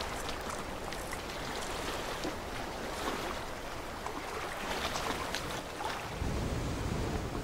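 Water washing along a rocky seashore, a steady rushing with scattered faint clicks; a deeper low rumble joins about six seconds in.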